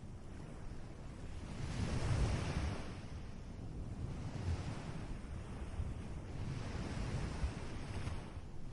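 Ocean surf: waves washing and breaking, with a louder surge about two seconds in and smaller ones later, over a low wind rumble on the microphone.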